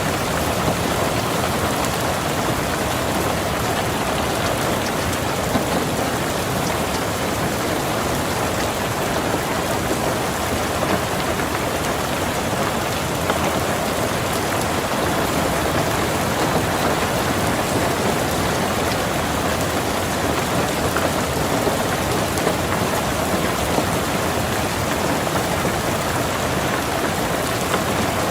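Steady rain falling on a car, heard from inside the car, with many small drop taps.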